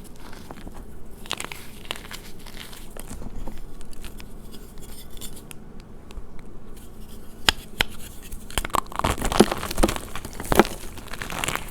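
Gym chalk being crushed and crumbled by hand: a run of light crackles and crunches that grows busier partway through, with a few sharp, louder cracks near the end.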